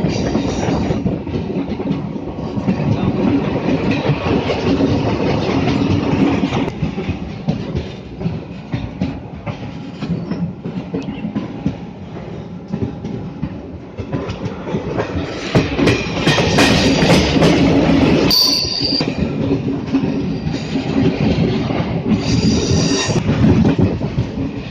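Train running on the rails: steady wheel and track noise, with high-pitched wheel squeals that get louder a little past halfway and again near the end.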